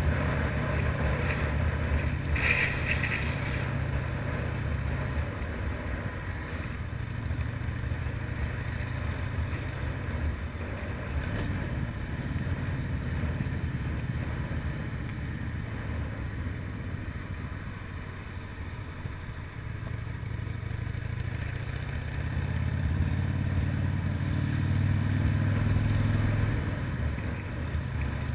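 Harley-Davidson FXR's V-twin engine running under way, easing off through the middle and pulling harder again, rising in pitch, a few seconds before the end.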